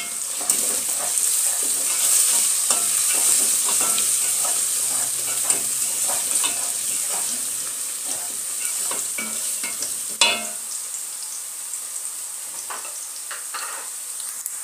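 Onions, potatoes and pilau masala sizzling in hot oil in a pot while a wooden spoon stirs and scrapes through them in quick strokes. The stirring stops with a knock about ten seconds in, and the sizzle goes on more quietly.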